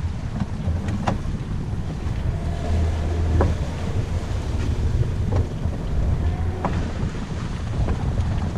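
Wind buffeting the microphone aboard a boat: a steady low rumble with a few faint short clicks.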